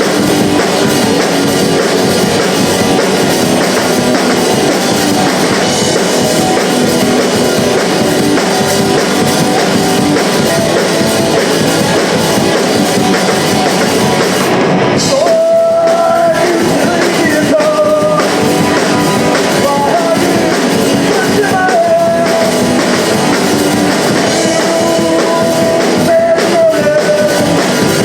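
Punk rock band playing live, with distorted guitars and a drum kit. About halfway through the band drops out for a moment, then comes back in with a voice singing over it.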